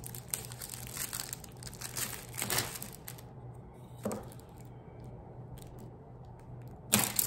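Crinkling and rustling from handling packaging, with a few sharp taps and clicks, loudest about two and a half seconds in and again near the end, quieter in between.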